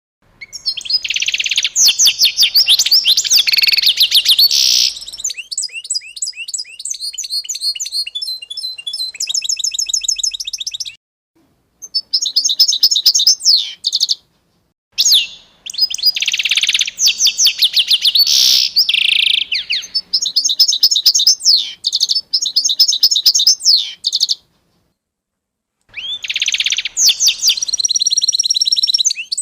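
Small songbirds singing: rapid high trills and repeated chirps, several birds at once. The song breaks off into complete silence three times, briefly, as the recordings are cut together.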